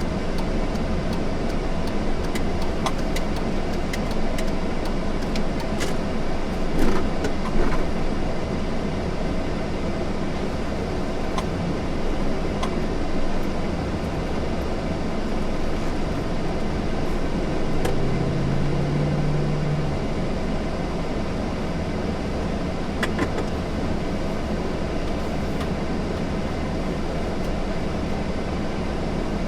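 Steady rumble of a car driving, with road and engine noise, scattered light clicks and a brief hum about two-thirds of the way through.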